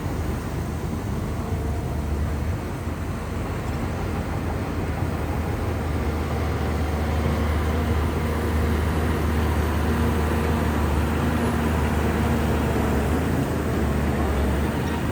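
Shantui bulldozer's heavy diesel engine running steadily as the dozer works, a deep low drone that grows slightly louder about halfway through.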